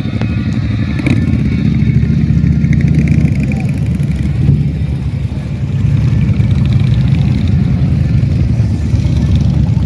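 Motorcycle engines running at low revs, a steady deep rumble with no clear rise or fall in pitch.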